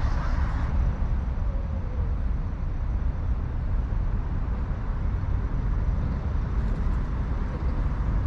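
Steady city street ambience: a constant low rumble of passing traffic.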